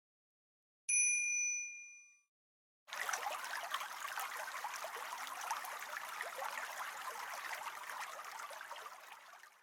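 A bright electronic chime dings once and rings out. About two seconds later a steady, splashy rush like running water starts and fades slightly near the end.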